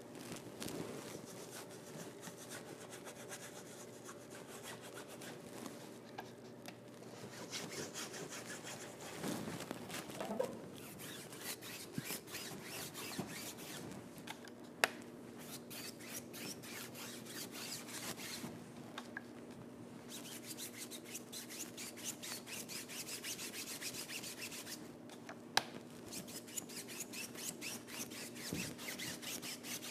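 Paintbrush strokes scrubbing across a stage backdrop: a dense, fast run of scratchy rubbing strokes, with a couple of sharp clicks and a faint steady hum underneath.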